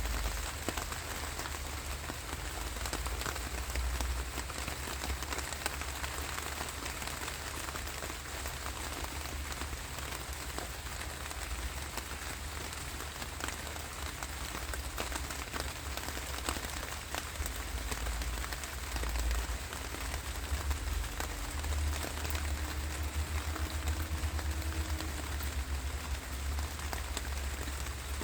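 Steady rainfall, with many separate drops striking a surface as small ticks over an even hiss, and a low rumble underneath.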